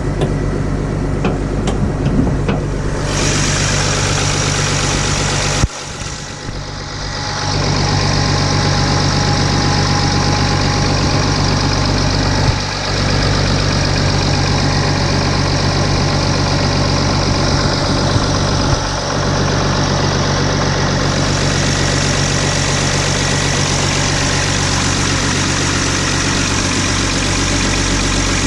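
Mercedes GL350 BlueTEC's 3.0-litre V6 turbodiesel idling steadily just after a −33 °C cold start, with the sound briefly muffled about six seconds in. The owner suspects some of its injectors are bad.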